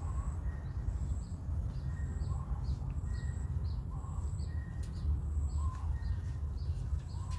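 Small birds chirping repeatedly in the background, short high chirps about twice a second, over a steady low rumble.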